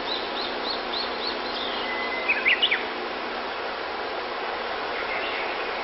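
Small birds chirping over a steady outdoor hiss. A quick run of about six short chirps comes first, then a brief whistle and a few sharp, louder chirps in the middle, and faint chirps near the end.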